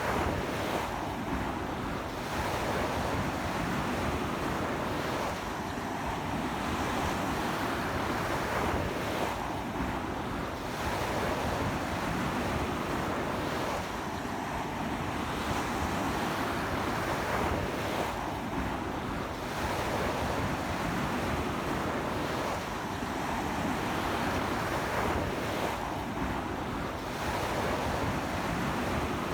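Sea waves breaking and washing up a beach in strong wind: a continuous surf noise that swells and eases every four seconds or so.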